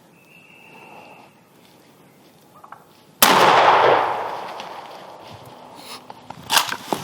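A single shotgun blast about three seconds in, its echo dying away over the next couple of seconds.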